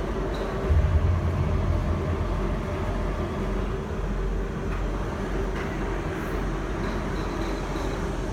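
Beiben 4x4 truck's engine running, with a low rumble that grows louder about a second in and then settles back to a steady drone.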